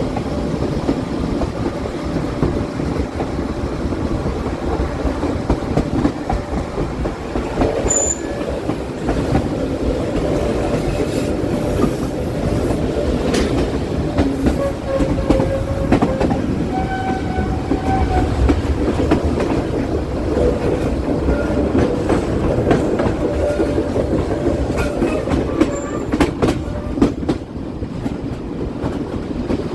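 Passenger train coaches running downhill through tight curves: a steady rumble of wheels on track with clicking over rail joints and brief high squeals from the wheels on the curves.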